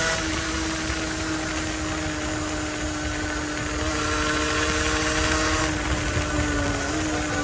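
Small two-stroke motorcycle engine running at a steady, nearly constant pitch while riding, with a slight rise near the end, over heavy wind and road noise.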